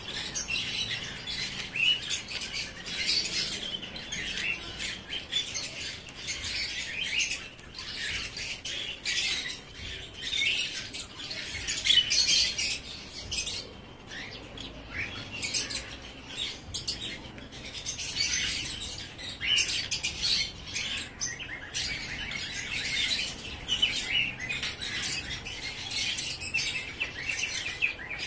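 Birds chirping in a steady stream of short, high, overlapping chirps.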